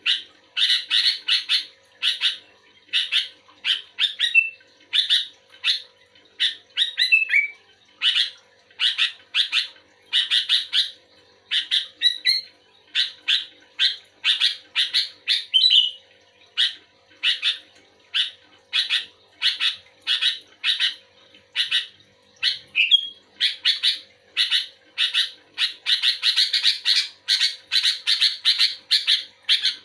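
Sooty-headed bulbul (kutilang) singing actively in a rapid, unbroken run of short chattering phrases, about one to two a second, with brief gaps between them.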